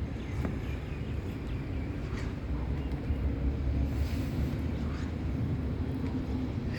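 Steady low outdoor rumble of ambient noise, with a faint hum and a few light ticks.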